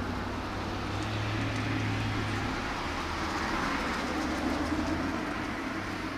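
A train passing: a steady rolling rumble with a low hum that drops away about five seconds in.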